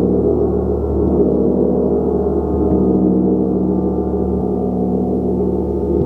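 A gong played continuously, its low, dense wash of overtones sustained and shifting in pitch as it is kept sounding.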